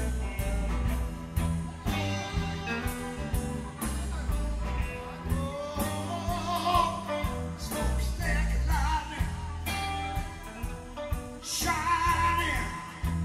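Live blues-rock jam band playing: electric guitar, bass and drums, with a wavering lead line over the steady rhythm.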